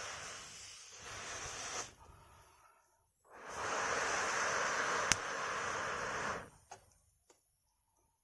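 Two long blows of air through a fire-blowing pipe onto a wood fire, each a steady hiss of a couple of seconds with a breath's pause between, and a sharp crackle from the burning wood during the second blow.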